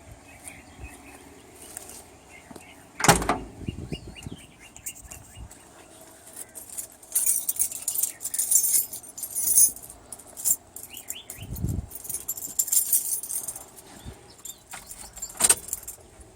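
Keys jangling in bouts, with a loud sharp knock about three seconds in, a duller thud later, and another sharp knock near the end. No engine is running.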